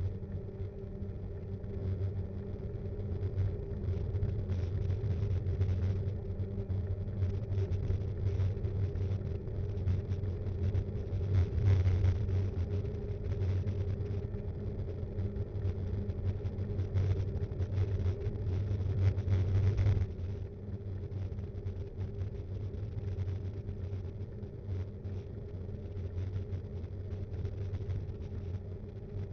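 Riding noise picked up by an action cam on a Btwin Rockrider 5.1 mountain bike: a steady low rumble and hum with constant fine rattling as the bike rolls over the road. It gets quieter about twenty seconds in.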